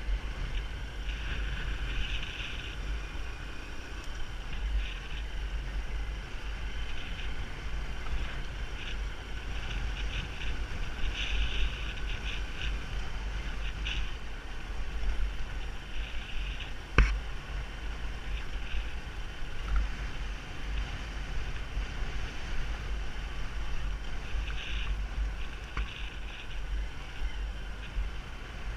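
Wind buffeting the microphone over the running noise of a moving motorbike, a steady gusting rumble, with one sharp knock about seventeen seconds in.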